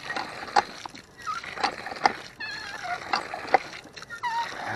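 Old cast-iron hand water pump being worked, its handle strokes giving a series of sharp clanks with wavering squeaks, and water splashing out.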